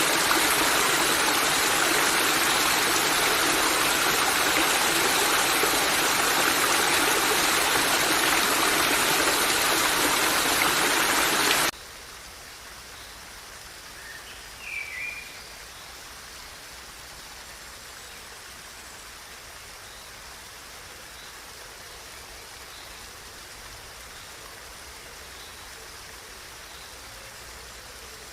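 Stream water rushing steadily, then cutting off abruptly about twelve seconds in to a much quieter, gentler flow. A brief high chirp comes a few seconds after the change.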